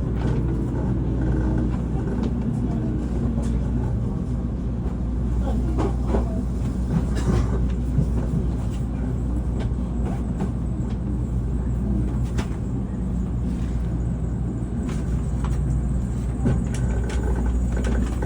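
Steady low rumble of a Tokaido Shinkansen train running, with a few light clicks and knocks over it.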